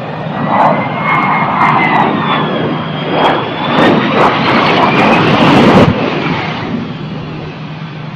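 Jet aircraft engines running loud, with a thin whine that glides up and down over a rushing noise. It builds to a peak about six seconds in and then eases off.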